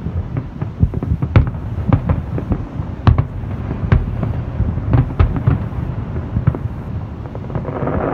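Aerial fireworks shells bursting in quick succession: a dense string of sharp booms and cracks.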